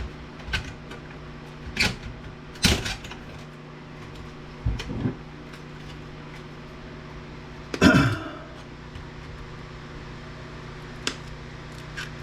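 Scattered clicks, knocks and one louder clunk with a brief ring about eight seconds in, as electronic parts and circuit boards from a stripped DVD player are handled on a workbench, over a steady low hum.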